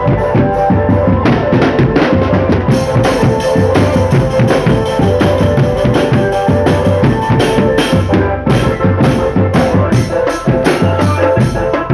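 Marching drum band playing: dense snare and bass drum beats under a sustained melody line.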